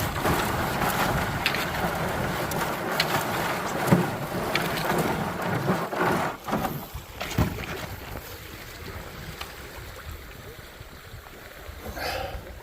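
Fiberglass canoe hull scraping along a sandy, rocky river bottom in shallow water, with a few sharp knocks against stones; the canoe is bottoming out. The scraping eases off about two-thirds of the way through.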